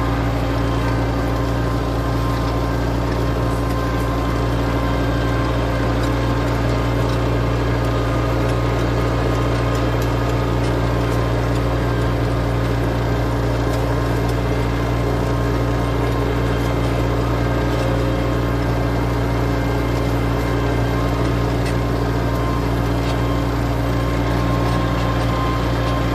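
A4800 farm tractor's engine running steadily at an even, unchanging pitch while the tractor works a disk plough.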